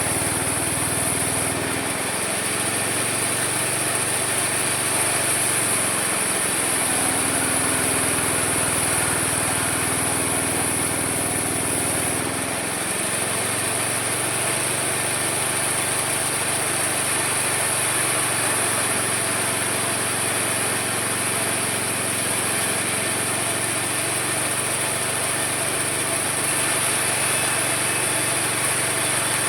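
Homemade mini sawmill running steadily while sawing wood, its tone changing about two seconds in and again near the middle.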